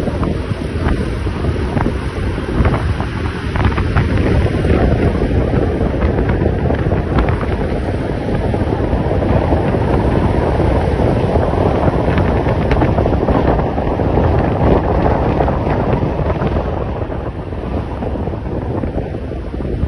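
Wind buffeting the microphone on a moving motorbike: a loud, steady rush with scattered faint clicks.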